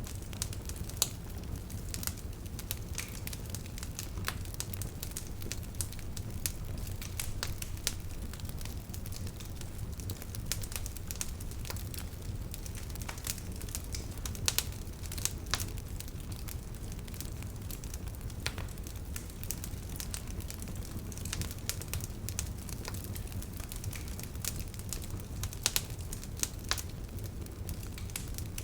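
Wood bonfire crackling: frequent sharp, irregular pops and snaps over a steady low rumble of the burning fire.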